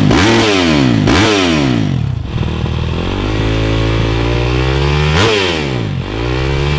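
A dirt bike engine is blipped twice in quick rises and falls of revs, then held at a steady speed. About five seconds in it is revved once more.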